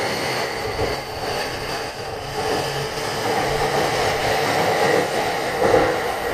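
Electric train running past, a steady rush of wheels on rails and motors with faint high steady whining tones, growing a little louder toward the end.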